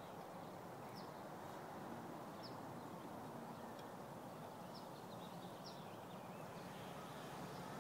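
Faint outdoor background noise with a few short, high bird chirps scattered through it.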